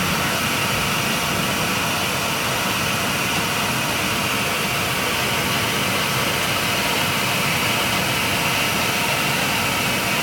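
Airliner cabin noise: the jet engines running on the ground, a steady, even rush with a hiss in the upper range.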